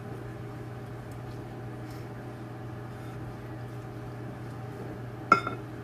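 Microwave oven running with a steady low hum. A single sharp knock near the end.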